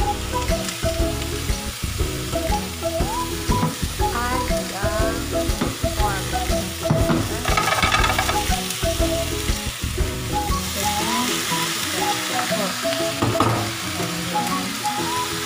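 Diced potatoes and carrots sizzling in hot oil in a frying pan, stirred with a spatula. Later on, diced raw pork goes into a pan of frying onions and sizzles, and the hiss gets louder for a while.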